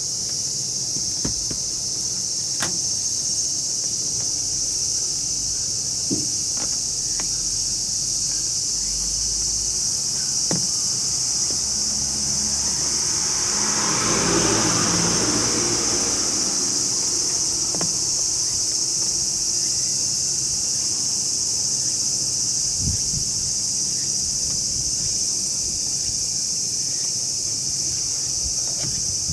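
Insects shrilling steadily and loudly in a continuous high-pitched drone. About halfway through a vehicle passes, its noise swelling and fading over a few seconds, and faint clicks from handling come and go.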